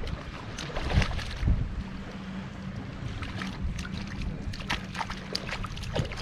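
Gusty wind buffeting the microphone in a steady low rumble, with scattered sharp clicks and rustles and a faint steady hum through the middle.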